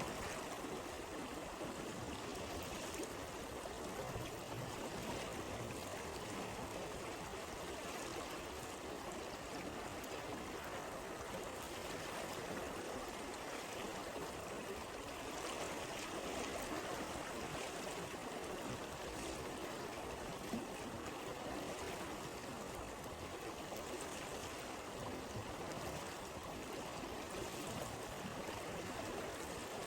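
A stream flowing steadily over stones, with a single sharp pop about two-thirds of the way in.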